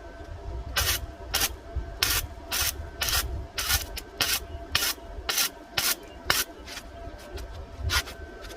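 Short rasping scrubbing strokes on steel box section, about two a second in an uneven rhythm.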